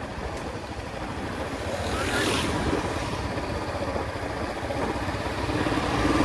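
Royal Enfield Classic 350's single-cylinder engine running steadily under way, with wind rushing over the microphone. A brief louder rush of hiss comes about two seconds in, and the sound builds slightly toward the end.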